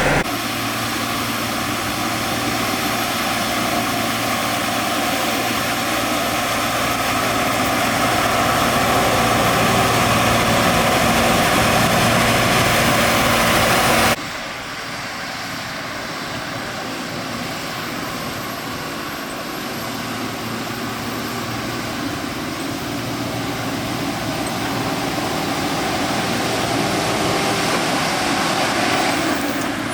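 Steady running noise of construction-vehicle motors. It breaks off abruptly about halfway through, as at an edit, and goes on slightly quieter in the same steady way.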